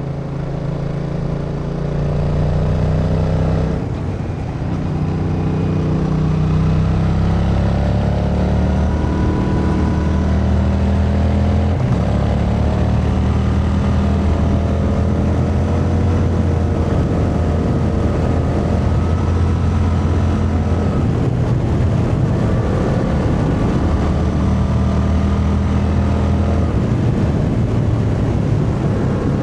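Yamaha MT-07's 689 cc parallel-twin engine under way at riding speed. Its note rises and falls with the throttle and drops back briefly about 4 seconds in and again near 12 seconds.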